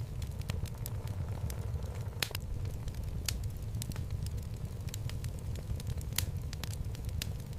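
Wood fire burning in a home fireplace: a steady low rumble of the flames with irregular sharp crackles and pops from the burning logs, a few louder pops standing out.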